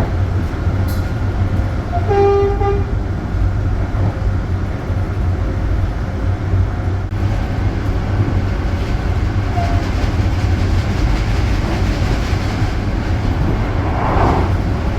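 Passenger train running with a steady low rumble, and a short horn toot about two seconds in.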